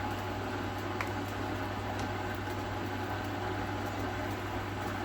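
Steady low hum with a faint hiss in a kitchen during cooking, with two faint light clicks about one and two seconds in.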